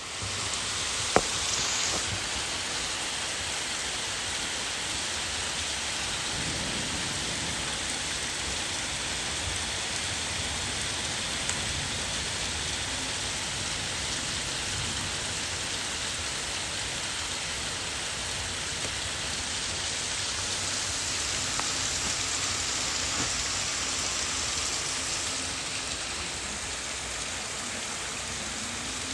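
Steady downpour of rain from a strong thunderstorm, falling and splashing on surfaces as an even hiss, with a single sharp tap about a second in.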